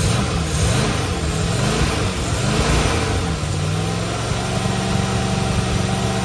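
Carbureted 4.0 Rover V8 running on an engine stand, its speed rising and falling repeatedly, then settling to a steady idle about four seconds in. The builder thinks the carburetor could run a little smoother.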